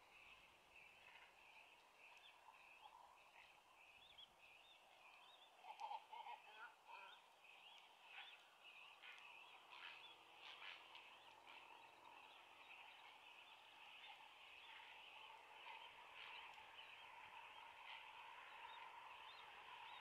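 Faint, continuous chatter of many short bird calls, with a brief louder cluster of calls about six seconds in.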